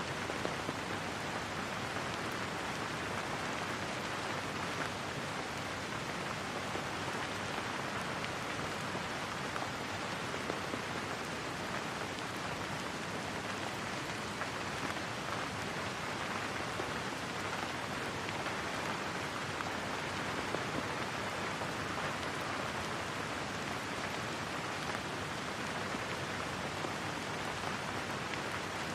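Steady, even rainfall: a constant hiss of rain falling on a surface, unchanging throughout.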